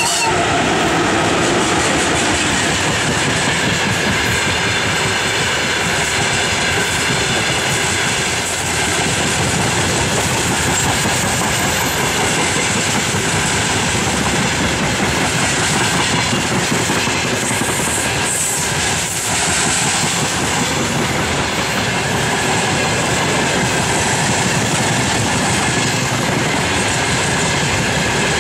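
Freight train of open gondola wagons rolling past close by behind a VL80K electric locomotive: a steady loud rumble of wheels on rail with the clickety-clack of wheels over rail joints.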